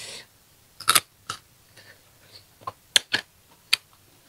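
Crisp crunching of salted green ambarella (cóc) being bitten and chewed close to the microphone: a string of short, sharp crackles at uneven intervals.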